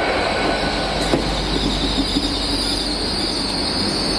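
GWR Intercity Express Train rolling out along the platform, its wheels squealing at a steady high pitch over the running rumble, with one sharp click about a second in.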